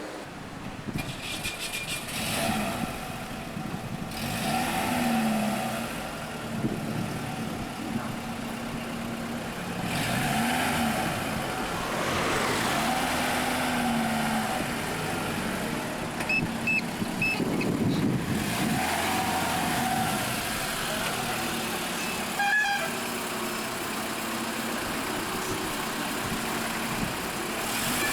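Street traffic: car engines passing and revving, their pitch rising and falling several times. A few short high beeps come about halfway through.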